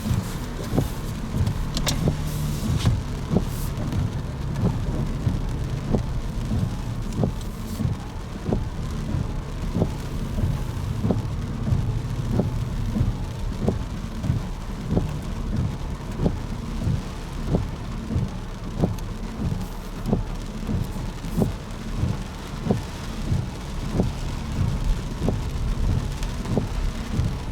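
Footsteps walking at a steady pace, about two steps a second, over a steady low rumble.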